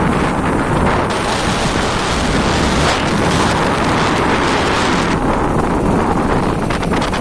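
Wind buffeting the microphone on a moving motorbike, a loud, steady rush with no clear engine note. It grows heavier and brighter from about one second in until about five seconds in.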